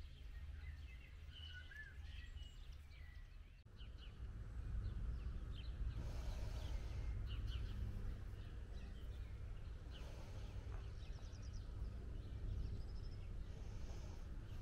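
Small birds chirping and twittering faintly over a low, steady background rumble, with a brief rush of noise about six seconds in.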